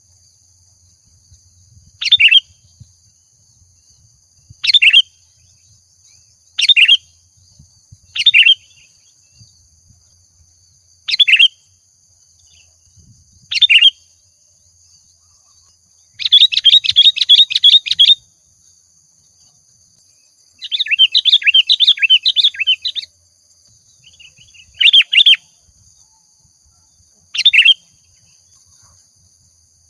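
Sooty-headed bulbul (kutilang) singing in a lively, full-voiced way: short calls every two seconds or so, and two longer rapid chattering phrases about halfway through.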